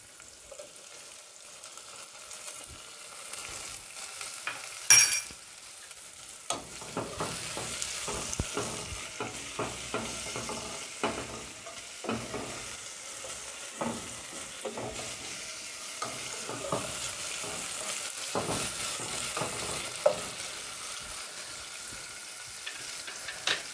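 Onions and chopped tomatoes sizzling in hot oil in a nonstick saucepan, with a spatula scraping and stirring through them from about six seconds in. A brief loud clink comes about five seconds in.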